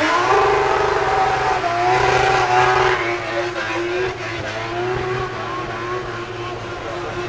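Drift car's engine revving hard, its pitch rising and falling as it slides down the course with tyre squeal; loudest in the first three seconds.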